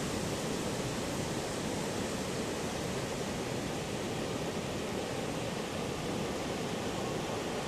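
Heavy surf breaking: a continuous, even rushing noise of large waves, with no single breaker standing out.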